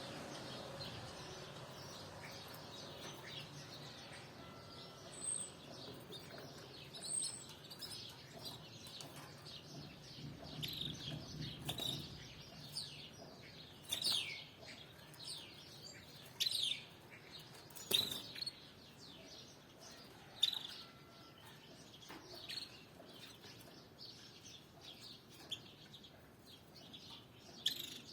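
Canaries chirping: many short, separate chirps that drop in pitch, coming at irregular intervals, with a few louder calls in the second half.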